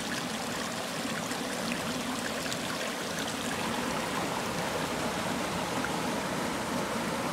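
Mountain stream and waterfall water running steadily into a rock pool, with a few faint splashy ticks.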